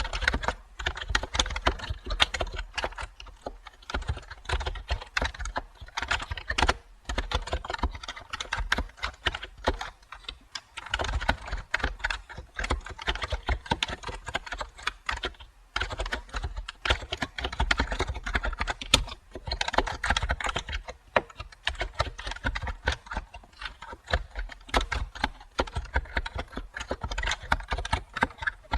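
Continuous fast typing on a computer keyboard: a dense stream of key clicks with a few brief pauses.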